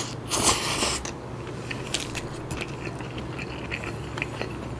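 Close-miked mouth sounds of a man eating a handful of nasi kandar (curried rice): a loud, wet rush as the mouthful goes in, then soft, irregular clicks and smacks of chewing.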